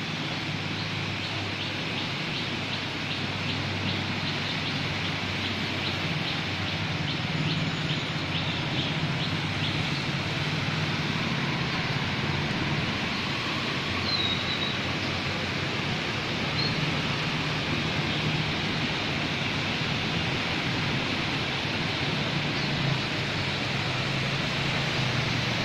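Steady rain falling on a flooded street, with the low hum of engines from vehicles wading through the floodwater.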